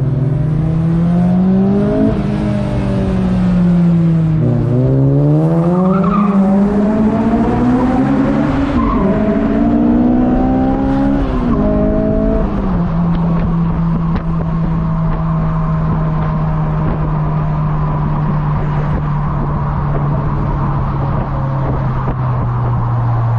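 Honda S2000's tuned four-cylinder engine with full bolt-ons pulling under acceleration: the engine pitch rises, eases back, then climbs twice more with a brief dip between. About halfway through it drops to a steady pitch and holds there while cruising.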